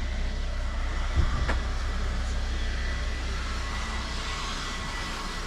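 City street ambience: a steady low rumble of traffic, with a short thump a little over a second in and a sharp click just after.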